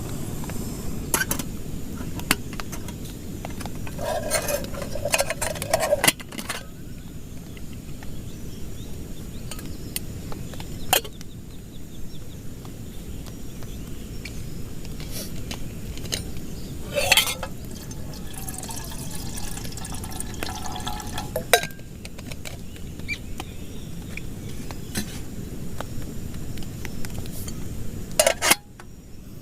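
Steady heavy rain, with scattered clinks and knocks of camp cookware and utensils handled several times, and a short ringing clatter about four to six seconds in.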